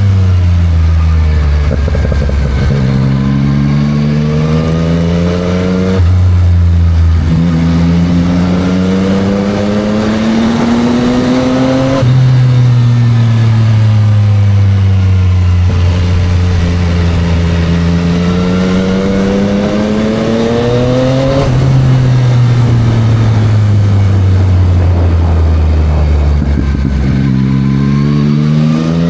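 Yamaha MT-09 SP's 890 cc inline-three engine through a Spark full aftermarket exhaust, heard from the rider's seat while riding. The pitch climbs under acceleration and drops at an upshift. Twice the revs jump up and then sink away as the bike slows on downshifts, and the engine pulls up again near the end.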